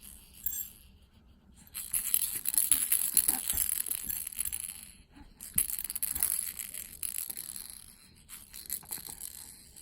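A baby's jingling rattle toy being shaken, in two spells of a few seconds each.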